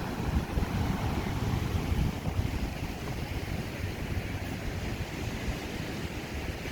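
Ocean surf rushing on the shore under wind buffeting the microphone, a continuous rumbling noise with no distinct events.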